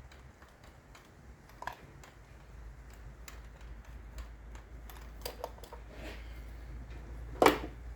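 Scattered light clicks and taps of metal tools and parts being handled at the engine while a compression test is set up, with one sharp knock about seven and a half seconds in.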